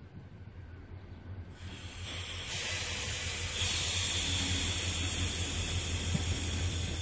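Approaching Mugunghwa passenger train: a hiss that rises and grows louder from about two seconds in, over a low steady hum.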